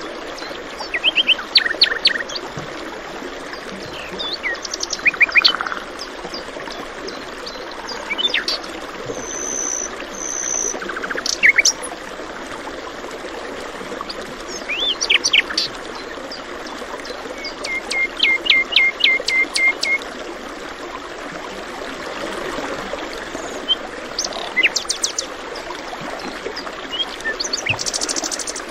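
Several songbirds chirping and calling over a steady rush of flowing water. About two-thirds of the way through, one bird gives a quick run of seven or so repeated notes.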